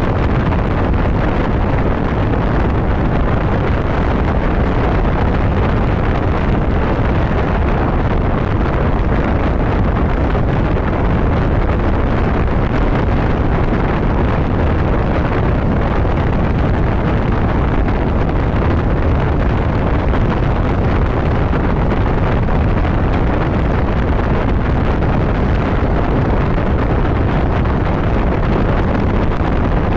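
Steady wind rushing over the microphone of a motorcycle moving at road speed, a dense low, even noise that does not let up.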